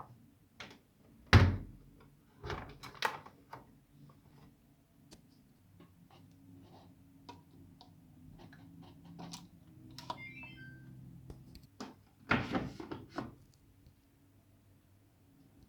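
Samsung Diamond washing machine being handled and set going. There is a loud thunk about a second in, then scattered clicks and knocks over a faint steady low hum, a short run of stepping high tones about ten seconds in, and another cluster of knocks near the end.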